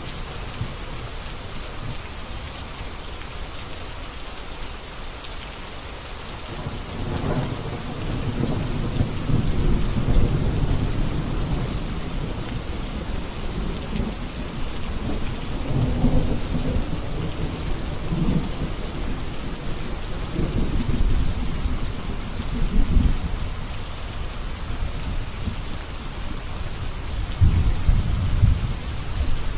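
Steady rain falling, with thunder rolling over it. Deep rumbles swell about a quarter of the way in and return several times, the last near the end.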